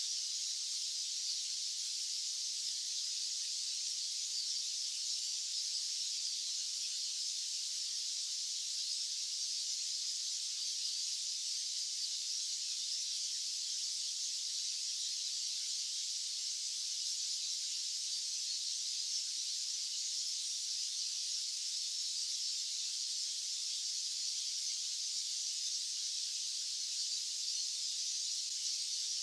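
White noise: a steady, even, high-pitched hiss with no low rumble and no change in level.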